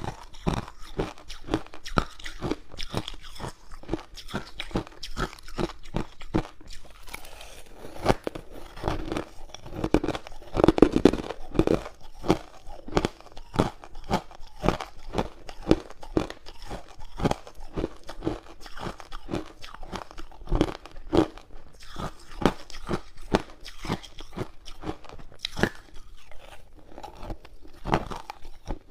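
A person biting and chewing hard ice cubes close to the microphone: a steady run of sharp, crackling crunches, louder for a couple of seconds near the middle.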